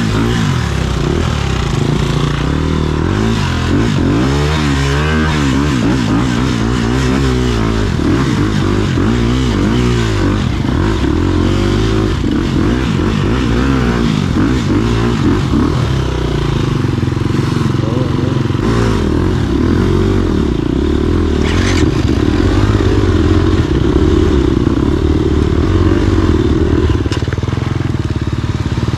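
Off-road motorcycle engine running and revving, its pitch rising and falling again and again; it holds steadier and higher from about halfway through.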